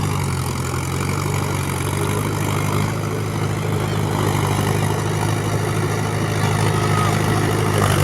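Heavy diesel engine running steadily at idle, with a low, even tone.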